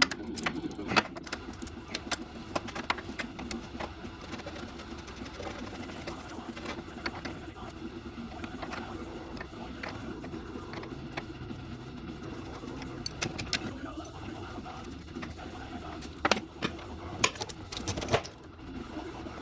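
Scattered clicks, taps and knocks of hand tools working on metal, a few sharper knocks near the end, over a steady low hum.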